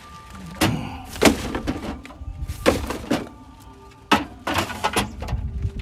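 A series of hard knocks and thuds, about seven spread irregularly, as objects are handled and set down, over background music.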